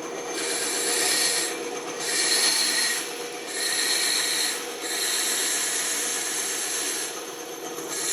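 Band saw running steadily while its blade cuts wood in four short passes, each a spell of hissing rasp over the motor's hum, with another cut starting near the end.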